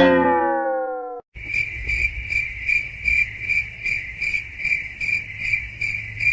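Cricket chirping: a steady high trill pulsing about two and a half times a second that starts abruptly just over a second in. It is preceded by a sudden tone with overtones that slides down in pitch and fades, then cuts off.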